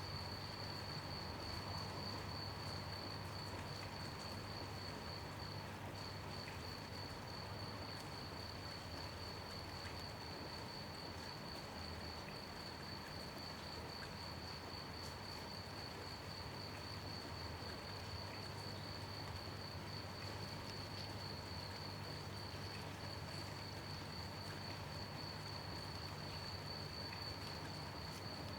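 A cricket trilling steadily in one unbroken high, finely pulsed chirp, over a soft, even hiss of gentle rain.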